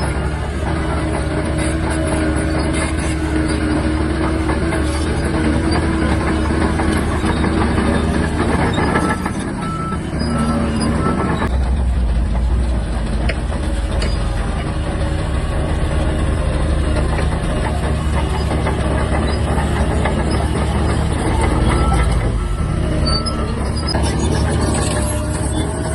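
Shantui DH17-C3 bulldozer running steadily while working dirt. The engine sound dips briefly about ten seconds in and then comes back with a deeper, heavier low rumble, as if under more load.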